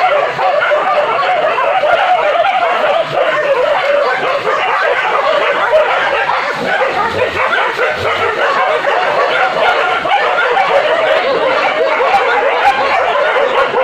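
A pack of village hunting dogs barking and yelping at once, many voices overlapping without a break, as they bay at a wild boar.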